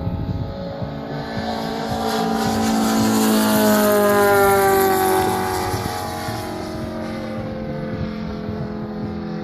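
Quarter-scale RC Pitts Special's five-cylinder rotary engine running steadily in a flyby. It grows louder, then its pitch drops as it passes, and it eases off a little.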